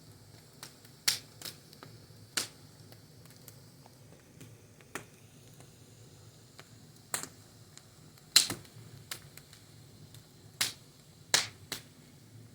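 Wood fire crackling: irregular sharp pops and snaps, a few loud ones several seconds apart with fainter ticks between, over a low steady hum.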